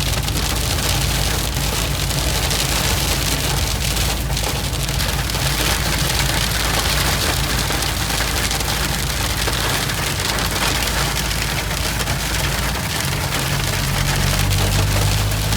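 Hail falling and hitting hard surfaces: a dense, loud patter of countless sharp little clicks. A low steady hum sits under it at the start and comes back near the end.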